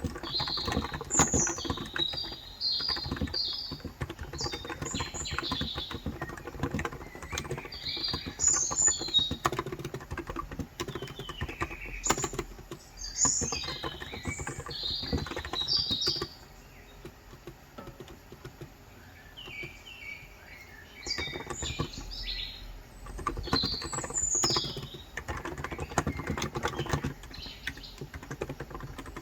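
Typing on a Cox Endeavor electro-capacitive 35 g tenkeyless keyboard, rapid keystrokes in bursts with a few seconds' pause about midway. Birds chirp and tweet throughout.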